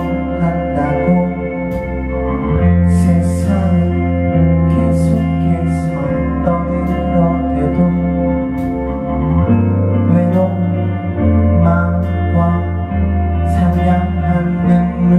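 A rock band playing a slow song live, with sustained chords over long held bass notes.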